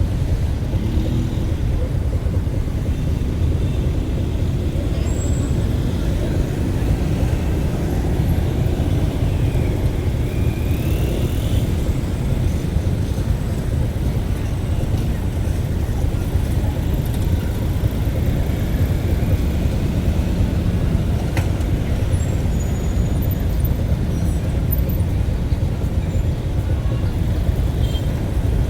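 Steady low rumble of a road vehicle on the move, even in level throughout.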